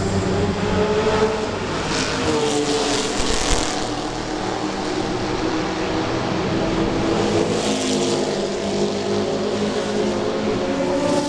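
Ford GT40's V8 engine running hard at racing speed, its note rising and falling as the revs change.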